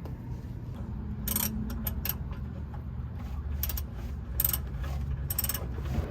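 Socket ratchet clicking in several short runs as it is swung back and forth, working loose a stuck oil filter.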